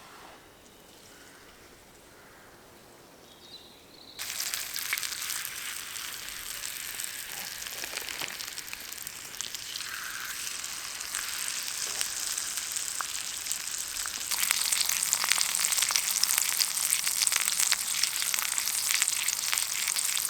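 Chicken thighs sizzling and spitting in a pan over a campfire, with many small pops. It starts suddenly about four seconds in after a quiet stretch and gets louder about two-thirds of the way through.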